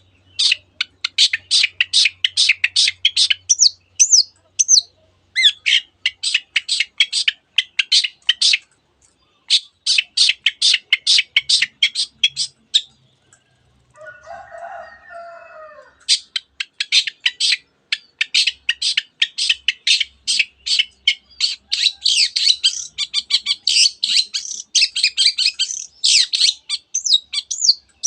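Long-tailed shrike (cendet) singing in rapid runs of sharp, high repeated notes, broken by short pauses. The song is packed with mimicry of other birds such as the canary. Around the middle there is a lower, rougher call.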